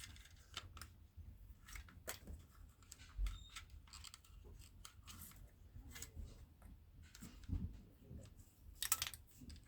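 Faint, scattered small clicks and rustles of a new starter cord being wound by hand onto the recoil starter pulley of a Stihl BR420 backpack blower.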